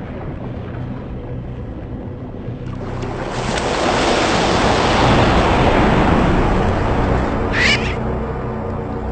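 A rush of sea water, splashing or surf, swells up about three seconds in and fades away again, over steady music. Near the end comes one short, high, rising cry, which fits a seabird's call.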